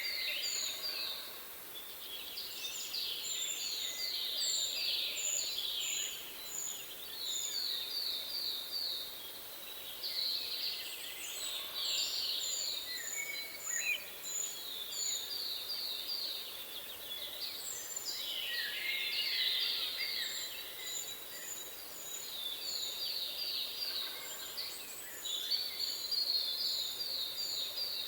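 Several songbirds singing together: a fast trill of short notes repeated every few seconds, runs of thin high piping notes, and scattered chirps in between.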